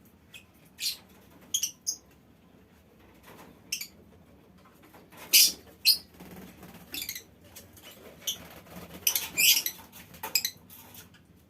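A colony of lovebirds giving short, shrill chirps and squeaky calls at irregular intervals, with the loudest call about five seconds in and a quick cluster of calls near the end.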